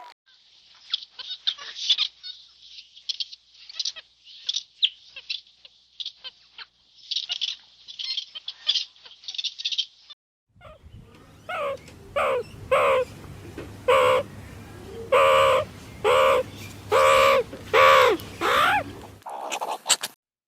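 Small birds chirping rapidly in high, thin calls for about ten seconds. After a short break, a waterfowl gives about ten loud calls in a steady series over a low hum.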